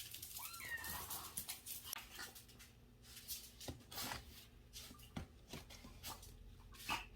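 A kitten gives a short meow about half a second in, followed by scattered clicks and rustles.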